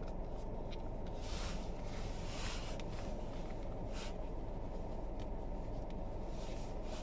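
A car moving on a snowy road, heard from inside the cabin: a steady low road and tyre rumble, with a few brief hissing swishes over it.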